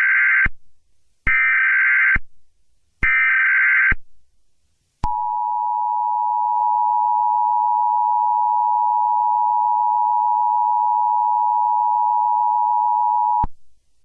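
Emergency Alert System tones. First come three short bursts of SAME header data, each a harsh buzzing warble about a second long. About five seconds in, the two-tone attention signal starts: a steady two-note tone held for about eight seconds that cuts off sharply.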